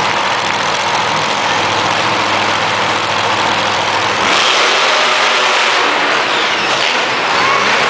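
Monster truck engine running and revving, with a rise in pitch about four seconds in and another near the end, over a dense wash of arena noise.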